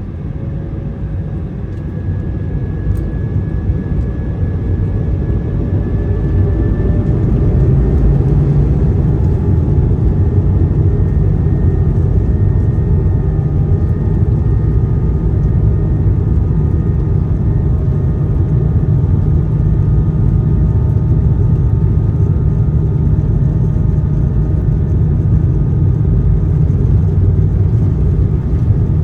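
Cabin noise of an Airbus A220 as its Pratt & Whitney PW1500G geared turbofans spool up. A faint whine rises slowly in pitch over a growing rumble for the first several seconds, then settles into a steady loud roar at high thrust, as on the takeoff roll.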